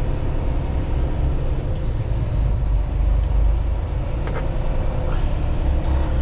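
2024 Freightliner semi-truck running, a steady low rumble heard inside the cab.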